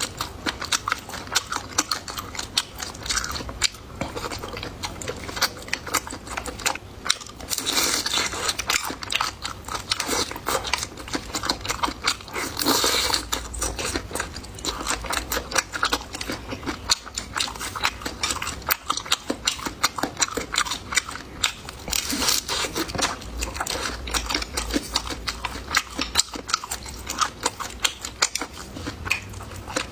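Close-miked eating: continuous chewing and biting of food, with dense crunchy clicks and smacks, growing louder a few times.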